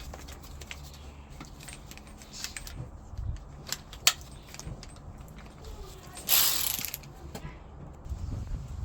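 Ratchet spanner clicking as bolts are worked loose on a car engine, with scattered sharp metal clicks and knocks. About six seconds in, a brief loud rushing burst.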